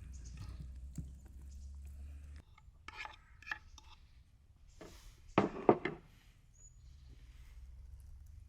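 Cookware and utensils knocking and clinking: a few light clicks about three seconds in, then a louder cluster of knocks a couple of seconds later, over a low steady rumble in the first part.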